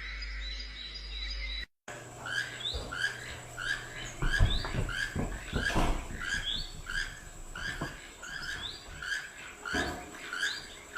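A bird repeating a short squeaky call about twice a second. The calls start about two seconds in, after a brief steady tone, and a few dull thumps come through underneath.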